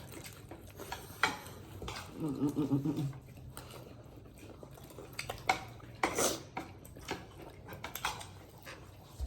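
Eating at a table: scattered chewing and smacking sounds and light clicks of utensils on plates. A short pitched voice sound, like a hum, comes about two seconds in.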